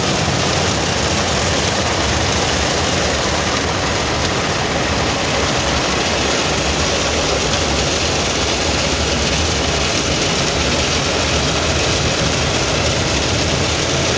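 Automatic car wash running, heard from inside the car: a loud, unbroken rush of spray and machinery noise that holds steady throughout.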